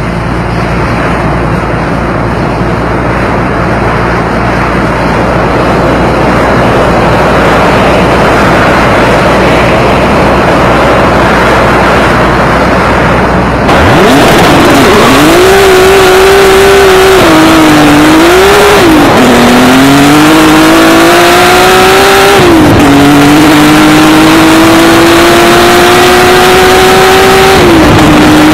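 Turbocharged BMW E30 drag car engine at full throttle, rated at about 1000 hp. A loud rushing noise comes first, then about 14 s in a clear engine note that climbs and drops sharply several times as it shifts up through the gears.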